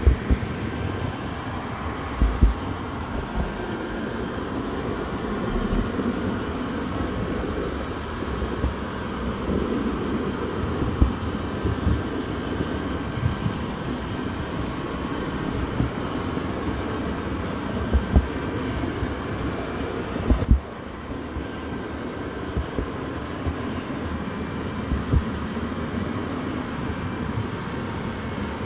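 Train running: a steady rumble and rattle with irregular low thumps every few seconds, stepping down slightly in level about twenty seconds in.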